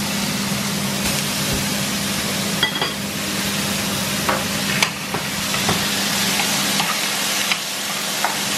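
Steak sizzling on a hot ridged cast-iron griddle pan while mushrooms fry in a second pan: a steady hiss of frying, with a few light knocks of cooking utensils against the pans.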